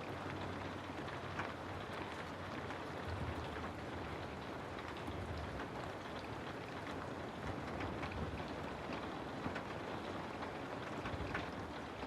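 Steady rain falling, an even hiss dotted with the small ticks of individual drops, with a faint low rumble underneath.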